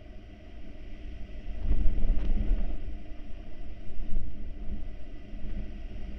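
Hurricane-force wind buffeting the owl nest box and its microphone: a low, gusty rumble that swells sharply a couple of seconds in and keeps surging unevenly.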